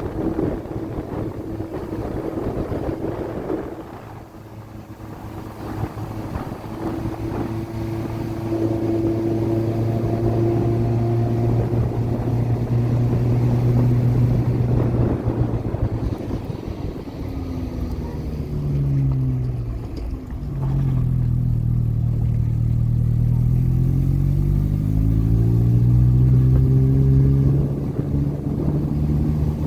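A motor engine running steadily, then slowing about two-thirds of the way through and picking up speed again, its pitch falling and then rising.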